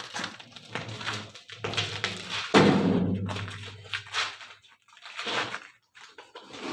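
A series of knocks with one heavy thud about two and a half seconds in, its low ringing fading over the next two seconds.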